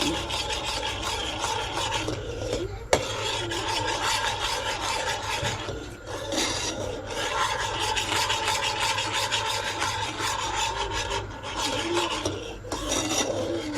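Gravy being stirred in a pan, a utensil scraping and rubbing steadily over the pan's base, with a few brief pauses and a single sharp knock about three seconds in. A steady faint hum runs underneath.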